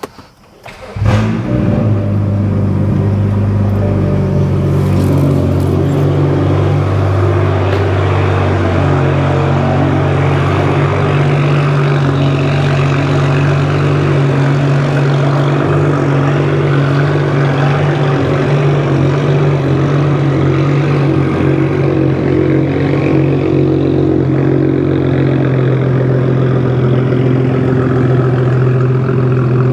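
Stage 2+ tuned BMW F10 535i's turbocharged inline-six, with a loud aftermarket exhaust, starting up about a second in and then idling steadily.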